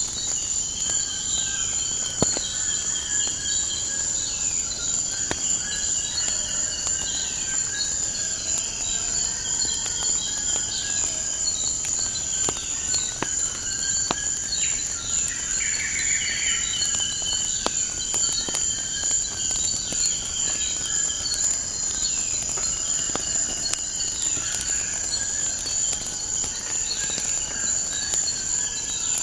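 A steady high-pitched insect trill runs throughout, with birds chirping and calling over it, and sparse sharp pops and crackles from a wood fire.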